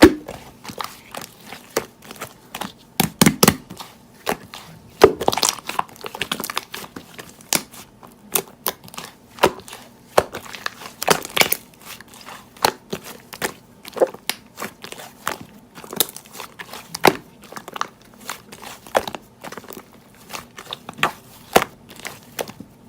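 Hands squeezing and pressing slime, giving irregular crackling clicks and pops, with a few denser stretches of crackle.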